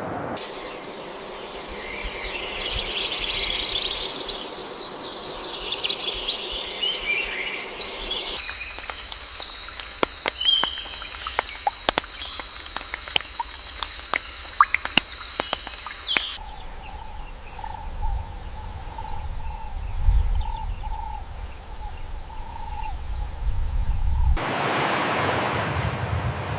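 Nature ambience that changes abruptly several times. First birds singing, then a steady high insect drone with scattered clicks, then a run of short repeated calls, and near the end a rushing noise.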